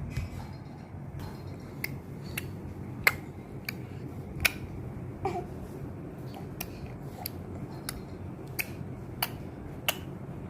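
About a dozen short, sharp clicks at irregular intervals over a steady low hum.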